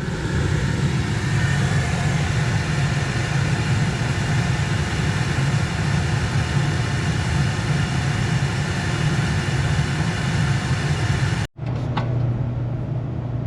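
Steam pressure washer running steadily with its burner switched on for a test firing: a steady low hum with a hiss of air and spray over it. The sound breaks off for an instant near the end and then carries on.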